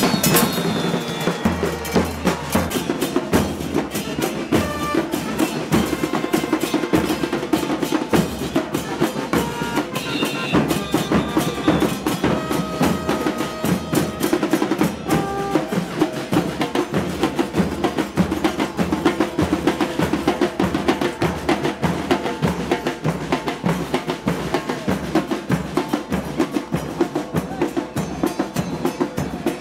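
Carnival murga drum section playing a fast, steady beat of bass drums, cymbals and snare.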